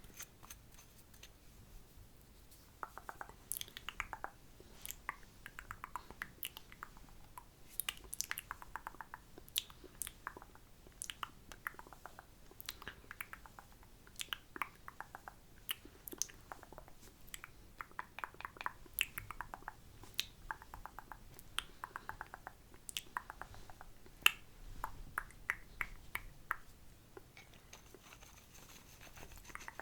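Close-miked wet mouth sounds: a quick, irregular run of tongue clicks and lip smacks that starts about three seconds in and goes on until near the end.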